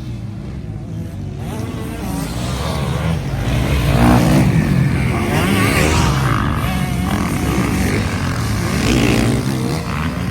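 Motocross bike engines revving, rising and falling in pitch as they pass. The sound swells to its loudest about four seconds in, and again near the end.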